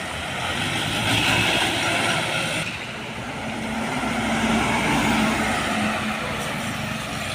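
Road traffic with trucks driving past: tyre and engine noise swells as one vehicle passes about a second in, then a second, lower-humming vehicle passes around four to six seconds in.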